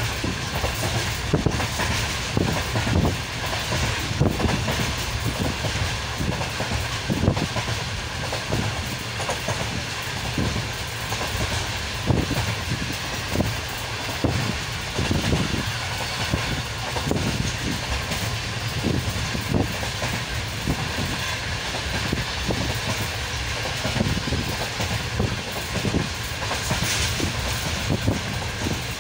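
A passenger train running at speed, heard from its carriage: a steady rumble of the moving train, with the wheels clacking over the rail joints in an uneven rhythm of about one to two knocks a second.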